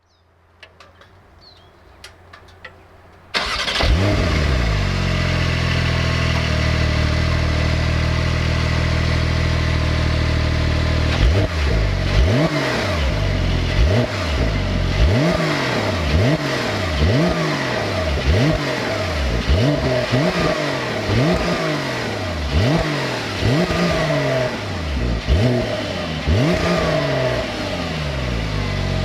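Porsche 911 992 Targa 4 GTS twin-turbo flat-six: a few faint clicks, then the engine starts with a sudden flare about three seconds in and settles to a steady idle. From about eleven seconds it is revved in quick blips, roughly one a second, each falling back toward idle.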